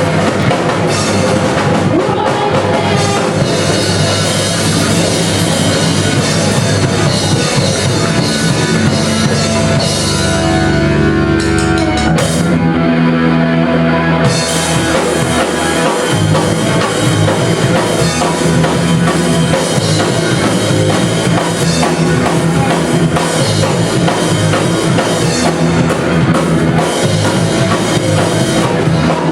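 A live rock band playing an instrumental passage with drum kit and guitars. About halfway through the band holds a chord and the cymbals drop out for a couple of seconds, then the full band comes back in.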